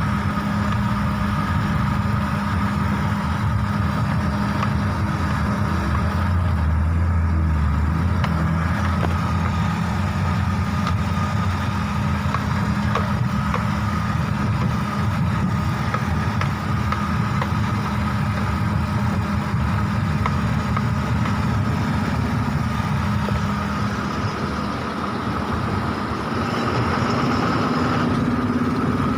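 Heavy diesel engine running steadily at a stone-loading site.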